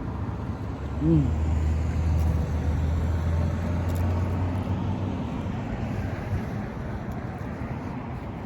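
Low rumble of a motor vehicle engine with traffic noise, strongest for a few seconds after about a second in, then fading.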